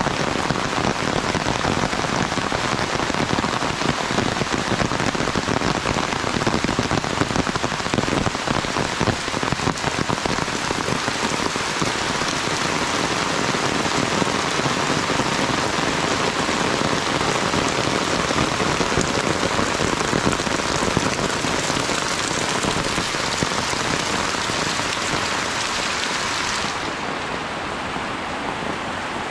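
Rain falling steadily with a dense hiss. Near the end the sound changes abruptly to a duller, slightly quieter rain with less hiss.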